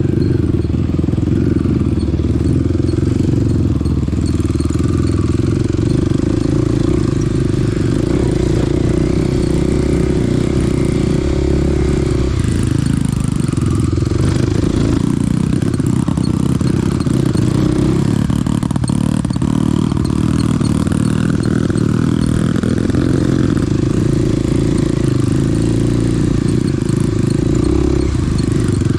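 Small dirt bike's single engine running under way, its note shifting a few times as the speed changes.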